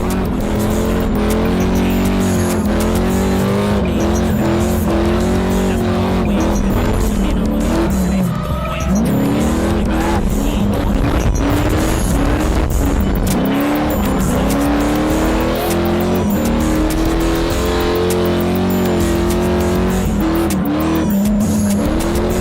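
Cars drifting on track: engines revving up and down sharply while tires squeal and skid.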